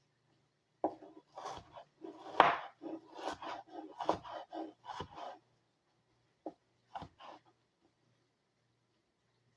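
Hand-forged 1075 steel kitchen prep knife rough-chopping food on a cutting board. A quick run of blade strokes lasts about four seconds, then after a pause come three more cuts.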